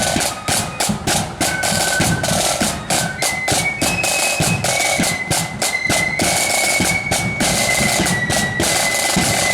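Marching band playing: a high single-line melody over rapid snare-drum strokes and a bass drum beat.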